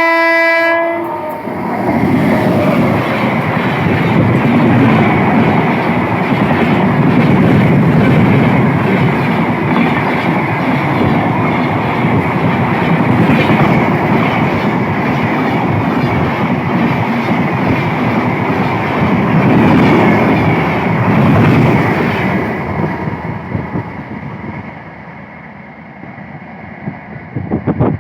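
A WAP-7 electric locomotive's horn sounds one steady pitched blast that cuts off about a second in. Then the train rushes past at full speed: a loud rumble with wheels clattering on the rails for about twenty seconds, fading away over the last few seconds.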